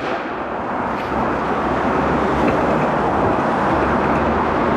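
Skateboard wheels rolling steadily over pavement, a continuous rumbling noise.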